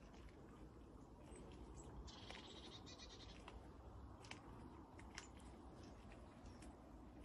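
Quiet outdoor garden ambience with a faint low rumble, and a brief, faint, rapid high-pitched trill from a small bird about two seconds in. A few faint light clicks are scattered through it.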